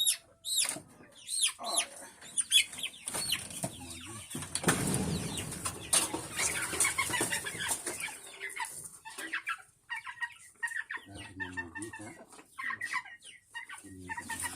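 A flock of chickens clucking and calling, many short high calls overlapping, with a stretch of rustling noise about five to eight seconds in.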